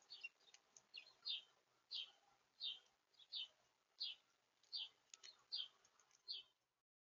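A small bird calling at the feeder: a short, high note sweeping downward, repeated evenly about every 0.7 seconds, nine times, with a few faint clicks. The sound cuts off just before the end.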